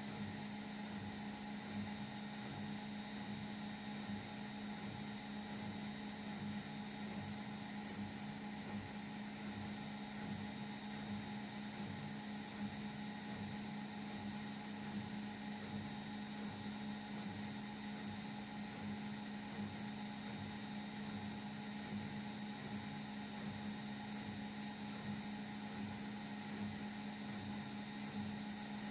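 Indesit washing machine running a step of its diagnostic test mode, giving off a steady, even hum with a faint high whine above it.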